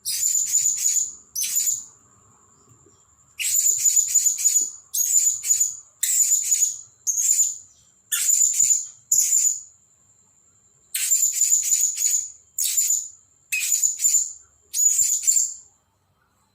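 Blue-crowned hanging parrot giving shrill, very high chirping calls in quick bursts of several notes, about a dozen bursts separated by short pauses.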